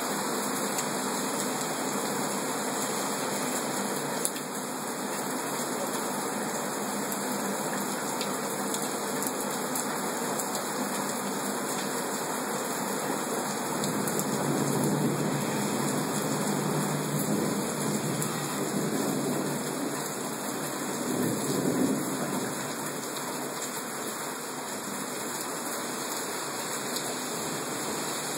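Heavy rain pouring steadily, with a low rumble swelling about halfway through and again a little later.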